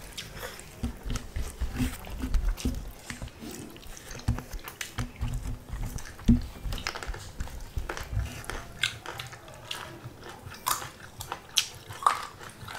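Close-up chewing of spicy pork and rice eaten by hand: wet mouth noises and many short, sharp clicks. The chewing is deeper and heavier for the first two-thirds, then lighter and clickier near the end.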